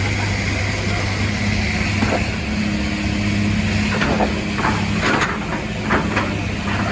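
Heavy vehicle engine running steadily, with a series of metallic clanks and knocks in the second half.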